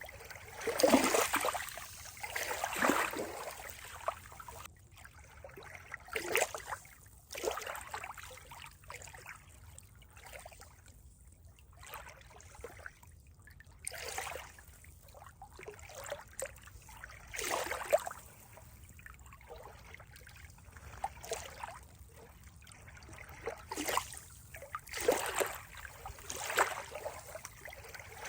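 Water splashing and lapping in irregular swells every second or two, with quieter trickling between.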